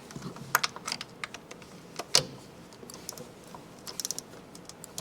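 A wrench being worked on intake manifold bolts: scattered sharp metallic clicks and knocks, the loudest about two seconds in, with a quick run of small clicks about four seconds in.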